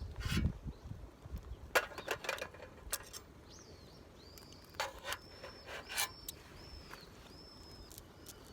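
Several sharp knocks and clicks, the loudest about two seconds in, while a bird repeats short arched whistled notes through the second half.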